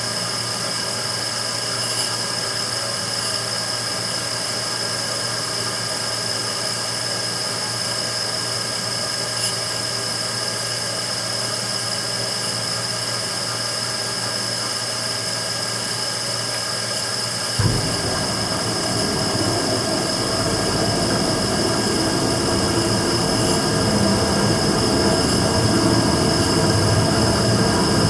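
Immersion tube burner. At first only a steady hum with a high-pitched whine. About two-thirds of the way in there is a sudden thump, and a rough rumbling starts and keeps getting louder; this is the abnormal noise of the burner firing.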